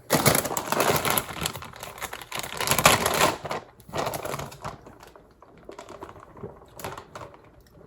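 Food packaging and ingredients being handled while a smoothie is made: a dense run of crackling and rustling for the first three and a half seconds, then short scattered crackles.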